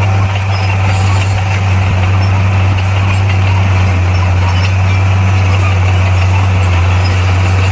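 Heavy earthmoving machine's diesel engine running steadily under load, a loud, unbroken low drone.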